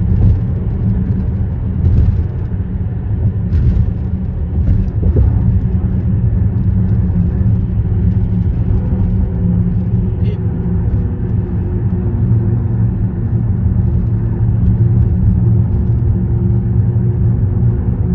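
Road traffic on a concrete bridge: a steady low rumble of vehicles and tyres, with a few short sharp knocks in the first five seconds.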